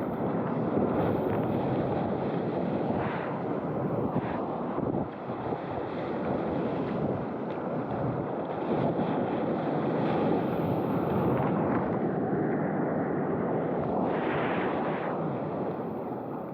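Surf rushing around a waveski as it rides a wave, with wind buffeting the microphone.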